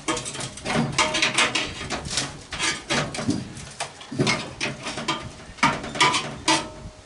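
Sheet metal of an old microwave being pried apart with hand tools: a run of irregular clanks, knocks and short metallic squeaks.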